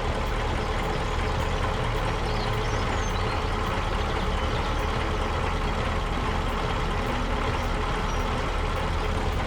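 A vehicle engine running steadily, with a low hum under an even mechanical noise.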